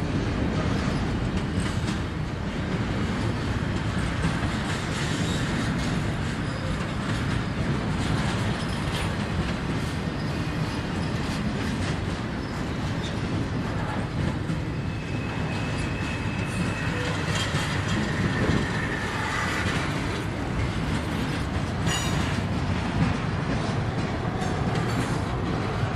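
Freight train cars rolling past, a steady rumble of wheels on rail with a faint, brief wheel squeal about fifteen seconds in.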